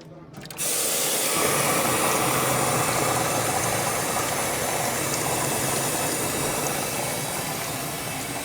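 Compressed-air blow gun hissing in one long steady blast, starting suddenly about half a second in and cutting off abruptly at the end.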